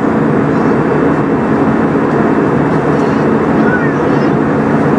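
Steady cabin drone inside an Airbus A320 in its climb: engine and airflow noise, constant and loud, with a low steady hum running through it.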